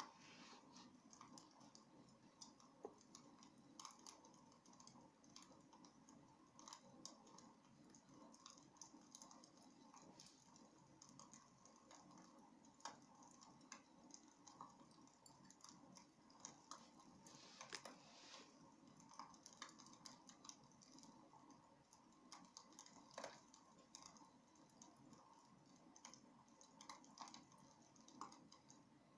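Wood fire crackling in a fireplace: faint, irregular pops and clicks over a low, steady hiss, with a brief denser cluster of crackles a little past the middle.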